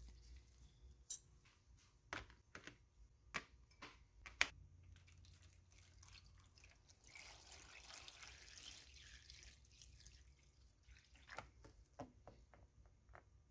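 Rust remover poured from a bottle into a plastic tub over cast iron parts, faint. A few sharp clicks and drips come first, then about three seconds of steady pouring and splashing, then more scattered drips.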